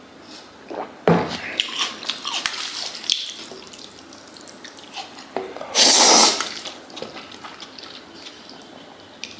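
Noodles being eaten: clicking and wet mixing sounds for a couple of seconds, then one loud, wet slurp about six seconds in.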